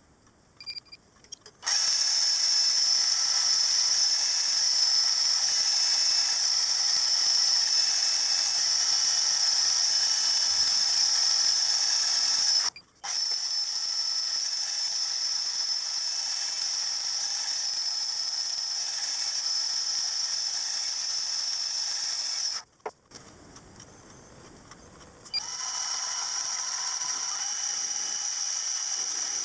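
Metal-working machine tool running and cutting metal, a steady hiss-like high whine with faint steady tones. It stops abruptly about 13 s in and again about 23 s in, then resumes somewhat quieter.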